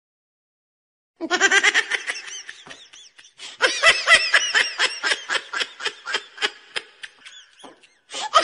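Laughter: a long run of rapid, pitched laughing bursts that starts about a second in and tails off, with a fresh run of laughing breaking out near the end.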